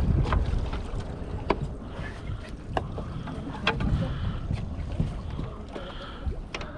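Wind buffeting the microphone aboard a fishing boat at sea, an uneven low rumble, with a few sharp clicks and knocks.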